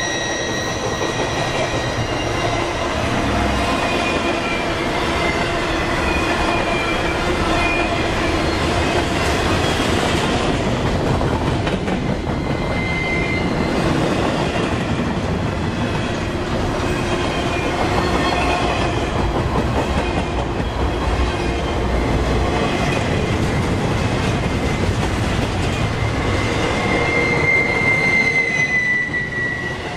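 Intermodal freight train's well cars rolling past at speed: a steady rumble of wheels on rail with a high, wavering wheel squeal that is strongest at the start and again near the end.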